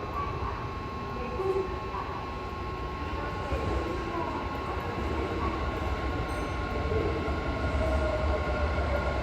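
Electric train running at a station platform, its low rumble slowly growing louder, with a few steady high tones over it and faint voices.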